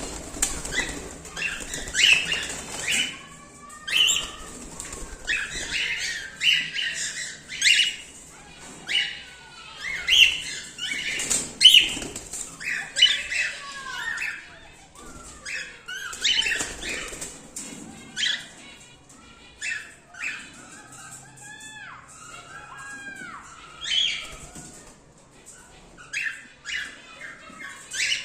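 A colony of cockatiels calling: repeated short chirps and squawks throughout, with a few rising-and-falling whistled calls about three-quarters of the way through.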